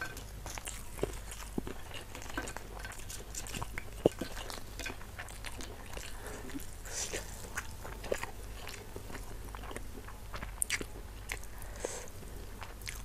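Close-miked chewing of spicy beef, rice and krupuk crackers: crisp crunches and crackles with wet mouth sounds, and one louder crack about four seconds in.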